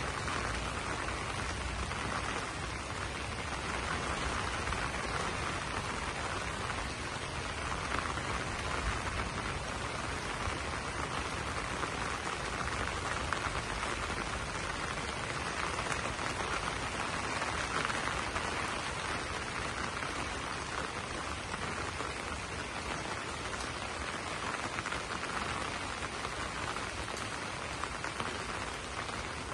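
Steady rain falling on banana leaves, an even, unbroken hiss with no single drops or other events standing out.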